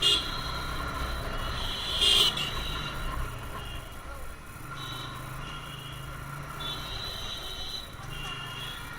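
Motorcycle ride: a TVS Apache RTR 160's single-cylinder engine running steadily under way, with wind and road noise, and a brief louder burst about two seconds in.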